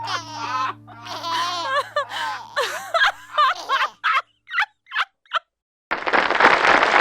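Children giggling and laughing, breaking off into a few short bursts of laughter. After a moment of silence, a loud, even rush of noise like applause starts about a second before the end.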